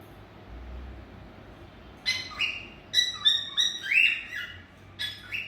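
Cockatiels chirping: a quick string of short whistled calls beginning about two seconds in, some stepping down in pitch and one longer call sliding upward.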